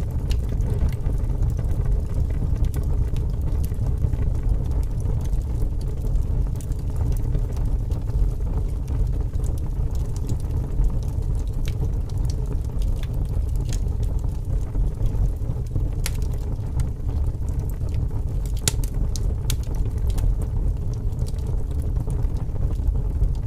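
Wood fire crackling, with scattered sharp pops, under a steady low rumble of strong wind.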